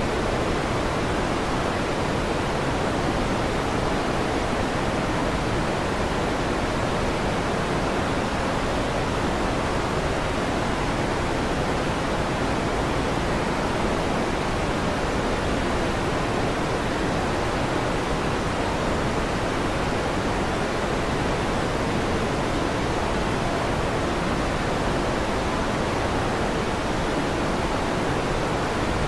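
Electric fan running with a steady, even whooshing hiss that stays unchanged throughout, with no thunder heard.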